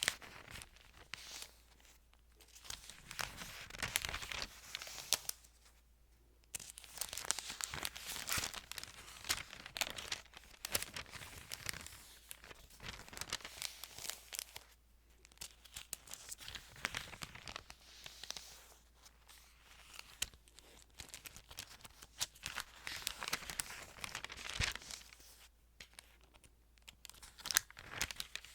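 Thin Bible pages being handled and turned, crinkling and rustling in irregular bursts with short pauses between them.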